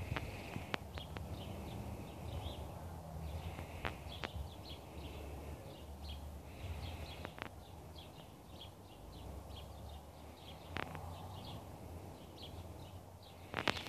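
Small birds chirping in quick repeated clusters over a low rumble, with a few sharp clicks scattered through, including a close pair near the end.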